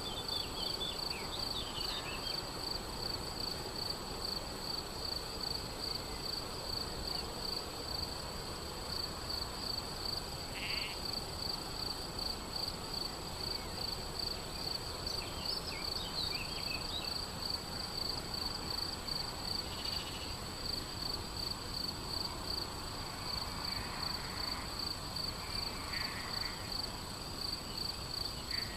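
Steady, rapidly pulsing high chirping of a cricket in a grassy field, with a few short bird chirps and faint animal calls scattered through.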